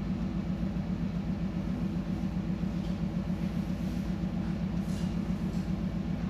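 Ship's engine running underway: a steady low, rapidly throbbing hum.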